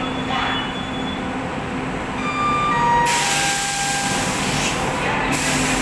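A WAG-9 electric locomotive and its train rolling slowly into a station platform, with a steady low hum and thin squealing tones from the wheels. About three seconds in, a loud hiss starts suddenly, breaks off briefly near the end and comes back.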